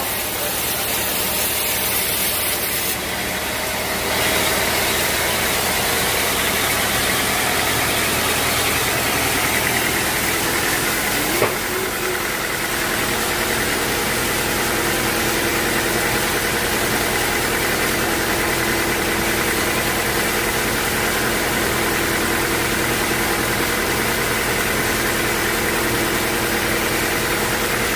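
Sawmill machinery running steadily, a little louder from about four seconds in, with a single sharp knock about eleven seconds in.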